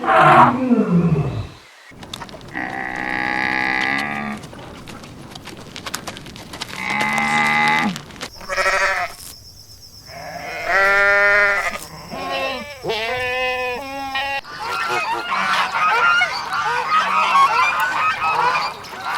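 Goats bleating: a loud call falling steeply in pitch at the start, then several wavering, quavering bleats a few seconds apart. For the last few seconds a flock of fowl calls together in a dense, busy chatter.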